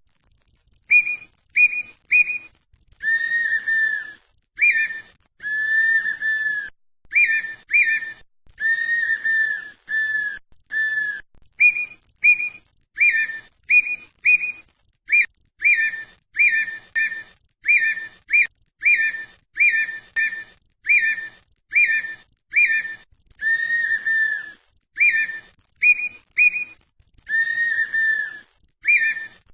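Red-winged tinamou (perdiz) calling: a long series of loud, flute-like whistles, short sharp notes in twos and threes alternating with longer, lower, slightly falling notes.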